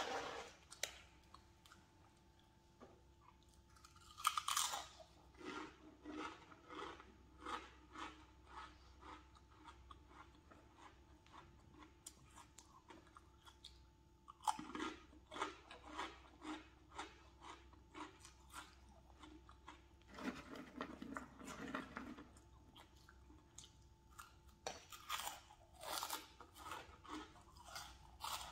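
A person chewing crunchy snack chips close to the microphone: runs of crisp crunches, about two or three a second, broken by short pauses, with a louder crunch about four seconds in.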